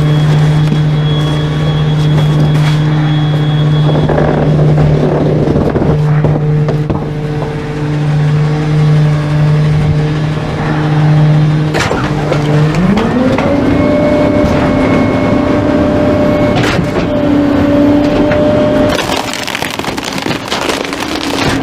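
Trash truck's diesel engine running steadily. About two-thirds of the way through, its speed rises and then holds at a higher pitch. A few sharp knocks sound over it, and it turns noisier near the end.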